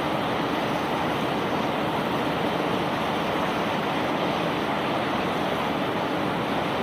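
Conveyor belt carrying rock, running with a steady, even rushing noise and no separate knocks.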